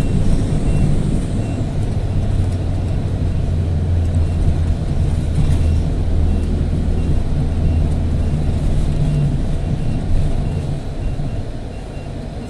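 City bus engine running with a steady low drone and road noise, heard from inside the cabin, with a faint regular beeping. The engine noise drops near the end as the bus slows.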